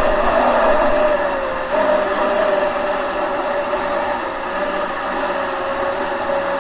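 Electric jet kayak's motor and jet drive running with a steady whine over rushing noise. The pitch dips slightly about a second and a half in, then holds.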